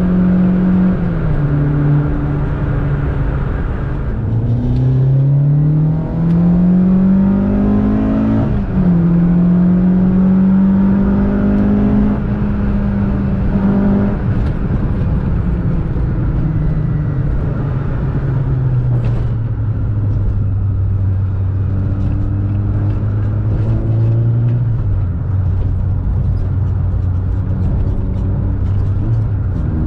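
Volkswagen Golf Mk2's 16-valve four-cylinder engine on motorcycle carburettors (individual throttle bodies) pulling at wide-open throttle: the engine note climbs steadily for about four seconds, drops sharply at a gear change, then holds before falling away to a lower steady note for the rest of the time.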